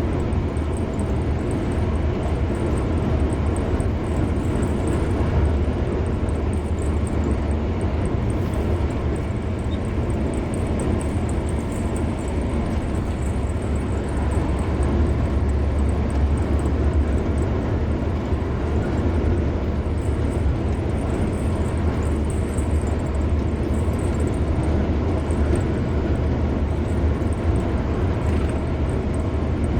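A car driving on the road, its steady rumble of tyre and engine noise strongest in the low end and unchanging.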